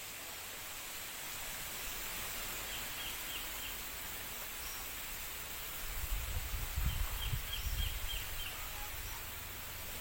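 Steady wind blowing, with a stronger gust about six seconds in that rumbles low for a couple of seconds. Twice, a short run of quick high chirps sounds through it.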